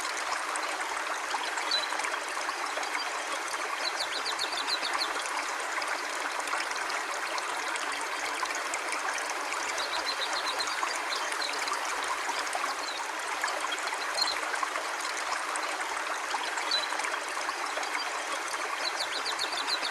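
River water flowing steadily, an even rushing murmur with no breaks.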